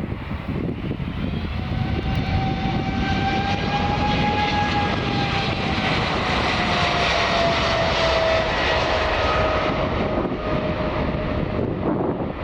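Boeing 777's GE90 jet engines passing by, a loud rushing roar with a high whine. The whine holds steady and then falls gradually in pitch through the second half as the aircraft goes past.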